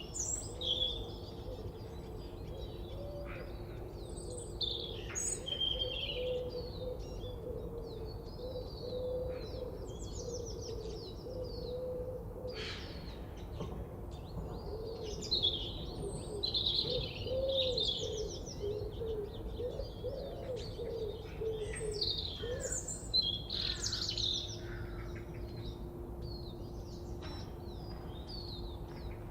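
Several birds chirping and trilling in a forest chorus, with short, varied high calls throughout and a lower wavering call running through the middle, over a faint steady hum and background noise.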